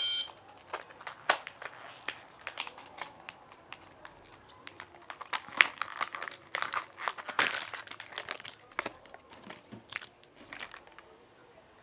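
Packaging being opened and handled, crinkling and rustling in irregular crackles, as a toy kitchen set's pieces are unwrapped.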